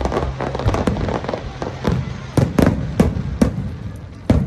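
Fireworks going off in a rapid, irregular run of bangs and crackles, thick at first, then thinning to a handful of loud, sharp single reports in the second half.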